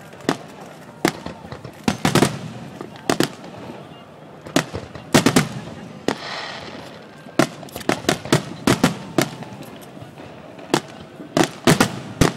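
Starmine fireworks going off in rapid, irregular bangs, with a brief hiss about six seconds in.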